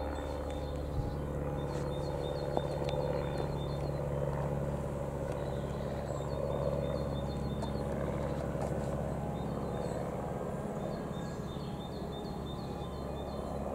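Diesel locomotive engine running at a steady idle, a low even hum that does not change pitch, with short high chirps repeating over it.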